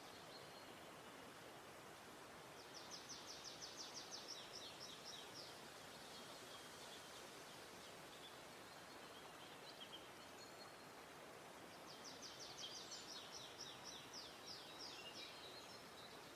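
Faint outdoor ambience in which a small songbird sings twice, each song a rapid run of high repeated notes lasting about three seconds, the first about three seconds in and the second about twelve seconds in.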